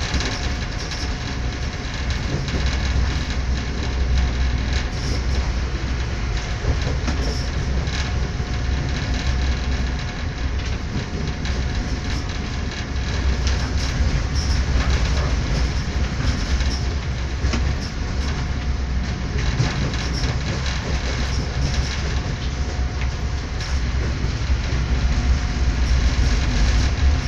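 Train running at speed, heard from inside the carriage: a steady low rumble of the wheels on the track with occasional clicks.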